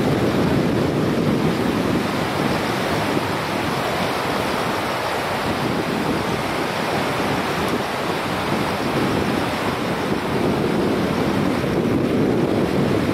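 The swollen, typhoon-flooded Kizu River rushing past a bridge as a loud, steady roar of floodwater, with wind buffeting the microphone.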